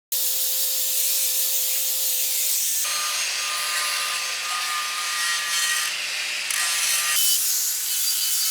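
Angle grinder with a flap disc grinding rust off steel wheels: a dense hiss over a steady motor whine. The sound changes abruptly a few times as the tool's load or position shifts.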